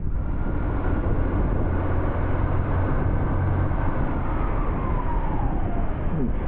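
Motorcycle riding sound: the Triumph Tiger 800's three-cylinder engine humming steadily under heavy wind and road noise. A fainter higher tone slides down in pitch over the second half.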